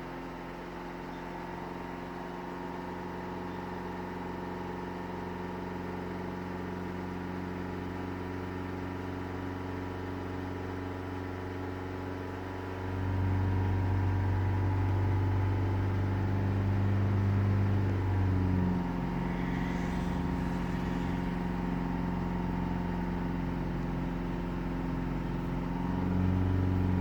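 Car engine running at a steady speed, held at raised revs to clear a tappet tick. It gets louder about halfway through for several seconds, drops back a little, then rises again near the end.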